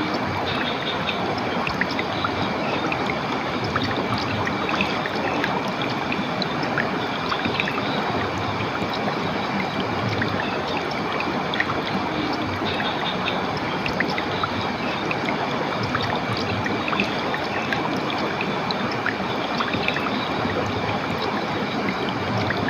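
Steady running water of a stream or small waterfall, an even rush with many tiny splashes and drips. Faint steady high tones sit above it throughout.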